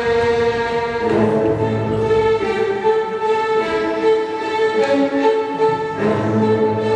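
Classical string music: a violin melody of held notes over lower strings, changing notes about every half second to a second.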